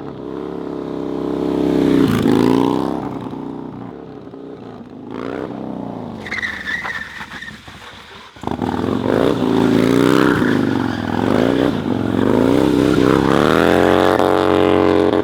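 Harley-Davidson Dyna FXDX V-twin revving up and down over and over, with a brief high tire squeal about halfway through the first half. The sound jumps abruptly a little past halfway, as at a cut between clips.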